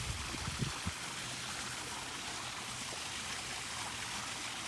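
Steady rush of running water from a garden pond's waterfall, with a few low thumps in the first second.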